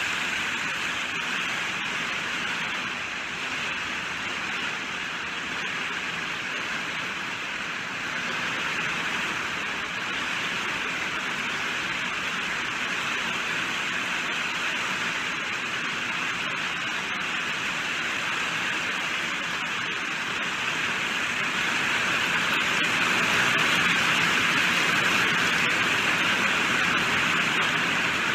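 Steady heavy rainfall, a dense even hiss of drops with fine crackle, growing a little louder about three quarters of the way through.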